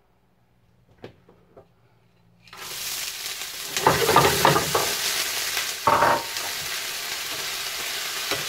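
Prawns, still partly frozen, dropped into hot oil in a frying pan: after a few light clicks, a loud sizzle starts suddenly about two and a half seconds in and carries on, with stronger crackling as they are stirred with a spatula.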